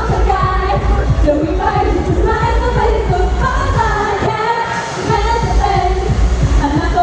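Live idol pop song with female voices singing over a backing track with a heavy, steady beat. The bass and beat drop out briefly about four and a half seconds in, then come back.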